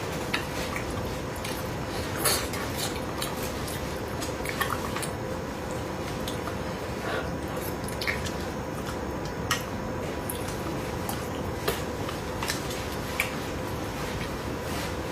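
Eating sounds: scattered short clicks and taps of utensils against dishes, with wet squishy mouth sounds, over a faint steady hum.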